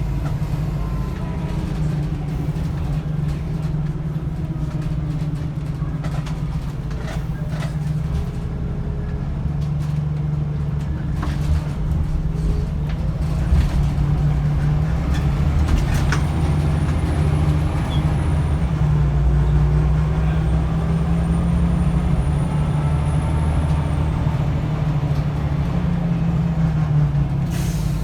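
Scania L94UB bus's nine-litre five-cylinder diesel engine running, heard from on board, with rattles and clicks from the body, a thin high whine in the middle and a short air hiss near the end.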